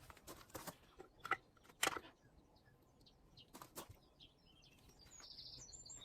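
A run of sharp clicks and knocks in the first two seconds and two more a little later, then a small bird chirping in quick high phrases near the end.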